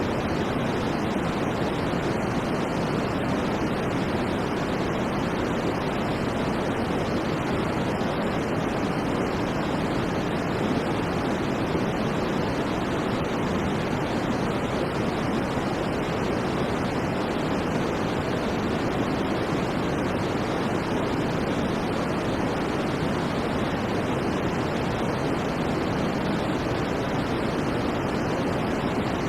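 Steady, unchanging white noise for sleep: an even rushing hiss, fuller in the lows and middle than in the highs, with no breaks or events.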